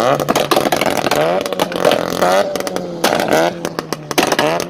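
A vehicle engine revved hard several times, its pitch sweeping up and dropping back over a steady idle note, with many sharp crackling pops throughout.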